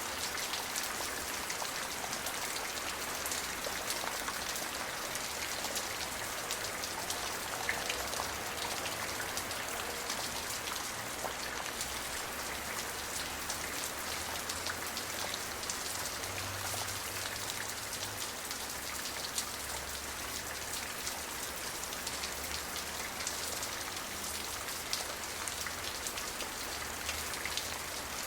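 Steady rain falling, with many fine drop ticks pattering on surfaces.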